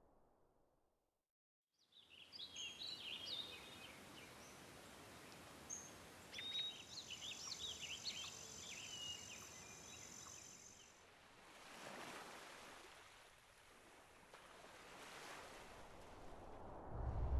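Outdoor nature ambience: birds chirping in quick, varied calls over a soft hiss, followed by two slow swells of rushing noise.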